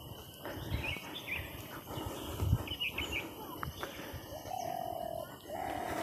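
Birds calling: a few short high chirps, then three held notes on one steady pitch near the end. Underneath are low thumps of footsteps on a concrete path.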